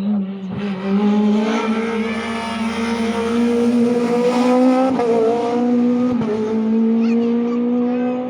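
Rally car engine running at high revs under hard acceleration, loud and steady, its pitch climbing slowly and dipping briefly twice, about five and six seconds in.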